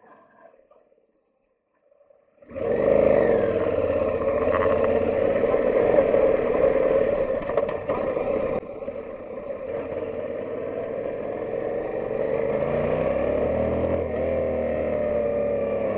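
Yamaha Ténéré 700's 689cc CP2 parallel-twin engine running under way on a gravel track, its pitch rising and falling with the throttle over a steady rush of wind and road noise. It cuts in suddenly about two and a half seconds in, after a near-silent start, and dips in level briefly a little past the middle.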